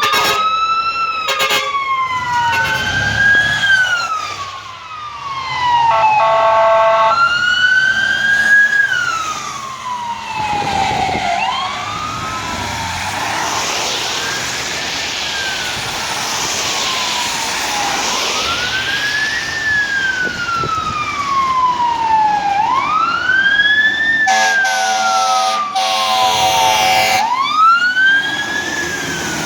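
Fire truck siren on a wail, each cycle a quick rise and a slow fall of about four seconds, repeating throughout. Horn blasts cut in briefly about six seconds in and for longer near the end.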